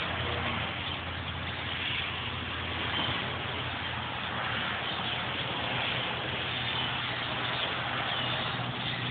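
Steady rushing noise with an even low hum underneath.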